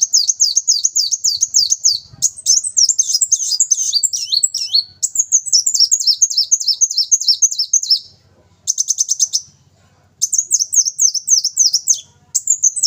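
Ruby-cheeked sunbird singing loudly and continuously: fast runs of high, sharply sweeping notes, about five a second, in long phrases broken by a few short pauses in the second half.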